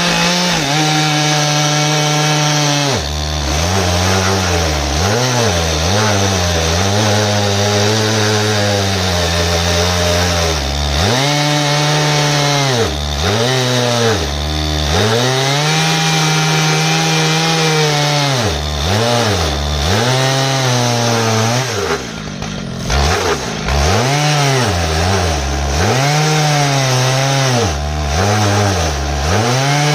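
Stihl MS 881 single-cylinder two-stroke chainsaw on an Alaskan chainsaw mill, running near full throttle as it rips lengthwise through an ash log. Its engine pitch sags and recovers again and again as the cut loads it, with a short drop in level about two-thirds of the way through.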